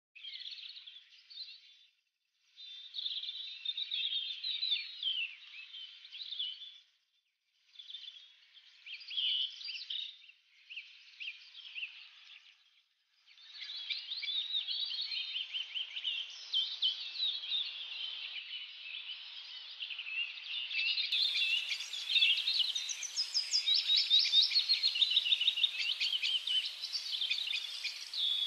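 Birds chirping and chattering in quick, high calls, at first in short spells broken by gaps, then without a break and growing louder for the second half.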